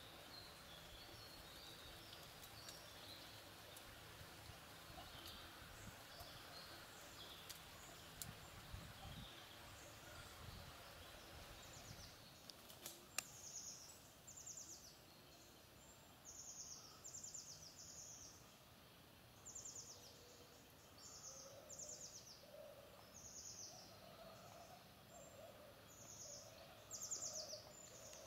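Faint woodland bird calls over quiet background noise. At first there are a few scattered high chirps. About halfway through, a bird starts giving short, high, falling trills, each about half a second long, repeated every second or two.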